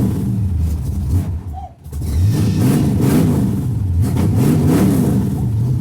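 Car engine of a G-body Pontiac Grand Prix just started cold, being blipped up and down in repeated revs. The sound drops out sharply for a moment about one and a half seconds in, then more revs follow, and it settles to a steady idle near the end.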